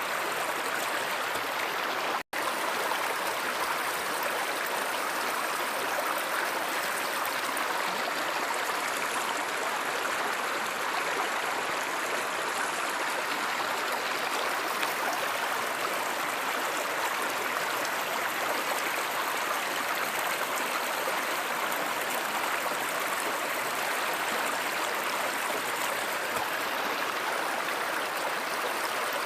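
A stream flowing steadily, an even rushing and trickling of water, with a momentary break in the sound about two seconds in.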